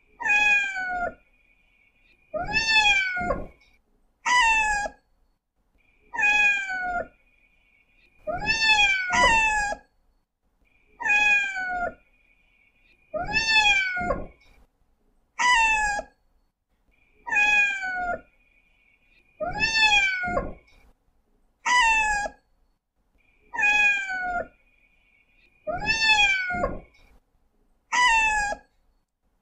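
Domestic cat meowing over and over, about one meow every two seconds and sometimes two in quick succession, each call rising briefly and then falling in pitch.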